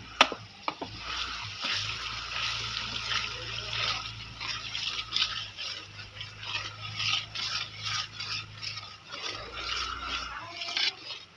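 Garlic-ginger paste sizzling in hot oil in an aluminium pot while a metal ladle stirs and scrapes it, making many short scrapes over the frying hiss. A sharp metal tap comes just at the start.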